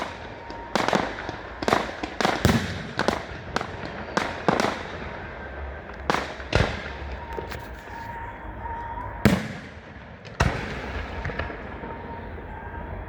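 Fireworks display: a rapid, irregular string of aerial shell bangs, each trailing off in an echo. The bangs thin out after the middle, leaving a few single loud reports, the loudest about two-thirds of the way through.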